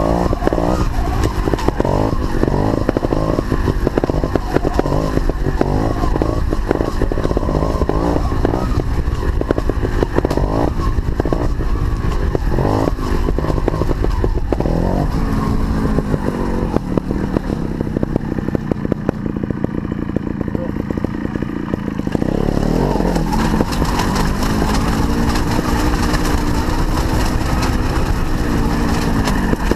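Sherco 290 trials motorcycle's two-stroke single-cylinder engine being ridden: quick, choppy throttle blips over roughly the first half, then running steadier with the revs rising and falling.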